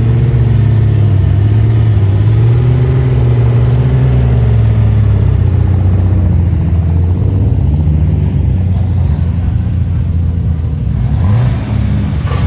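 A car engine running close by, its pitch wavering with light throttle, with a short rise in pitch near the end.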